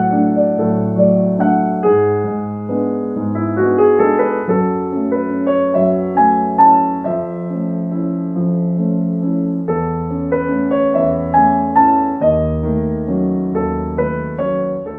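Background music: a gentle solo piano piece, with a melody over held bass notes, fading out at the very end.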